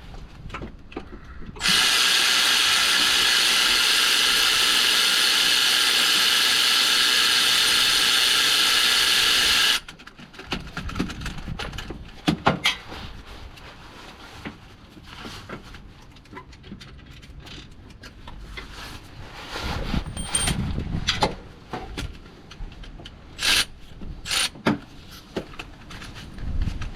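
A power drill running steadily at high speed for about eight seconds, starting and stopping sharply, followed by scattered clicks and knocks of parts and tools being handled.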